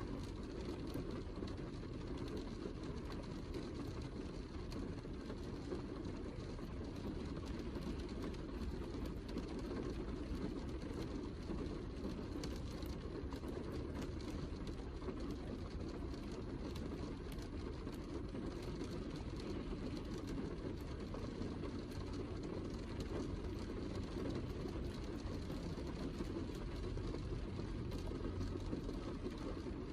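Steady heavy rain, a low, even rumbling hiss with faint scattered ticks of drops.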